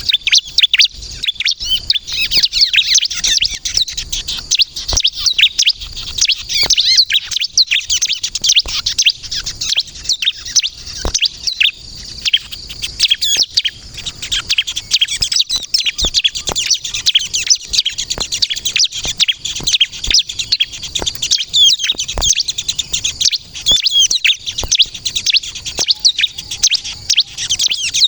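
Ciblek kristal (a prinia) singing nonstop in a fast, dense stream of high-pitched chirps and trills. This is the bird in full, constant song ('gacor').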